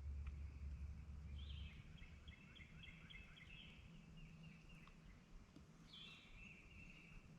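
Faint songbird singing: a run of quick high chirping notes about a second and a half in, and a shorter phrase near the end. A low rumble fades out in the first two seconds.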